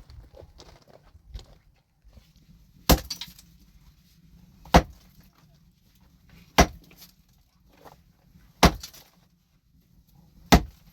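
Heavy blows of a hand tool on hard material, five strikes evenly spaced about two seconds apart, each with a short ring after it. Lighter knocks and clatter come before the first blow.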